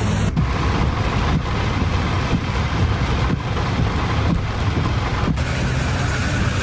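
Storm noise: steady wind and rain, with wind rumbling on the microphone. It is broken by a few brief cuts.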